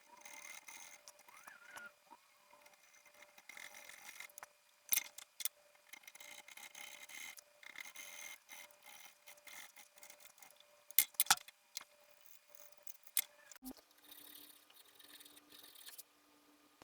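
Hand work on the wood of a setar: soft rubbing and scraping strokes with a few sharp clicks and taps.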